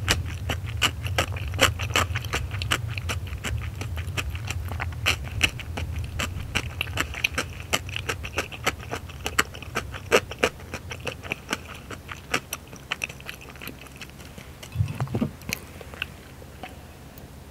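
Close-miked chewing of chewy rice cakes and noodles with the mouth closed: a dense run of small wet clicks that thins out after about twelve seconds. Near the end there is a short low sound as she drinks from a mug.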